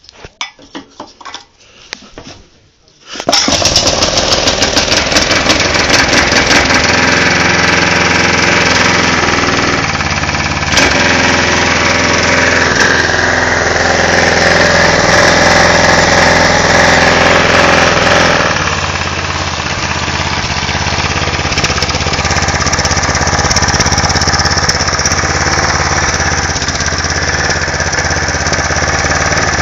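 Briggs & Stratton 5 hp single-cylinder engine catching about three seconds in after a few faint clinks, then running loud and steady. It speeds up for several seconds mid-way and then settles back to a steady run.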